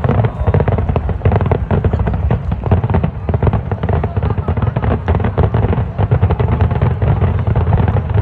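Fireworks going off in a loud, rapid, continuous barrage of bangs and crackles.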